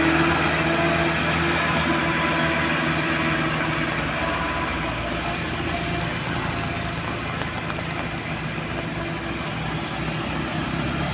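Engine of a heavily loaded truck running steadily under load, gradually getting quieter.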